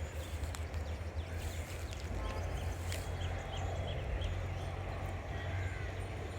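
Steady low rumble with faint, short high-pitched bird chirps, clearest a few seconds in.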